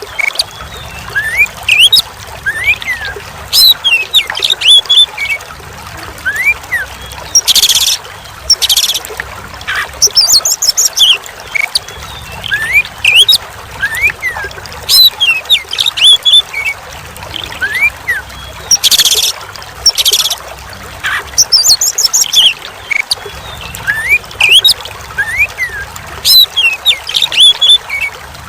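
Oriental magpie-robin (kacer) song, short rising and falling whistled phrases with a few harsh notes, over a steady trickle of running water. The same stretch of recording repeats about every eleven seconds.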